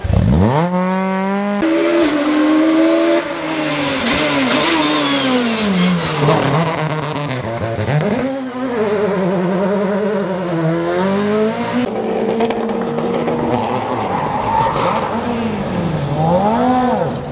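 Rally cars at full attack, engines revving hard with the pitch climbing and dropping repeatedly through gear changes and lifts, over a rushing noise of tyres and road; the sound changes abruptly several times between cars.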